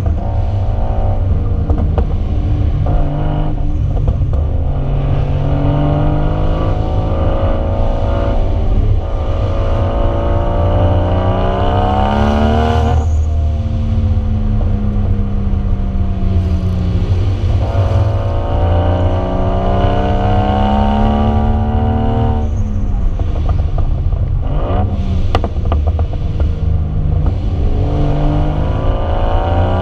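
Lexus IS300 with a swapped-in 1JZ straight-six and Vibrant exhaust, under way. The engine pulls up through the revs in long rising sweeps, three times, falling back in pitch between pulls, over a steady heavy low rumble.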